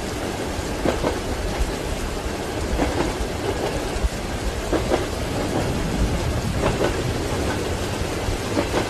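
Steady rain together with train wheels clacking over rail joints, a clack every second or two, over a continuous low rumble.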